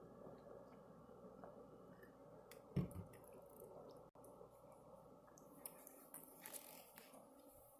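Near silence: faint room tone with one soft thump about three seconds in and a few faint clicks near the end.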